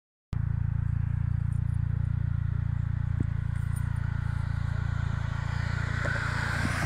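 Car on the road: a steady low rumble of engine and road noise, with a hiss that swells near the end.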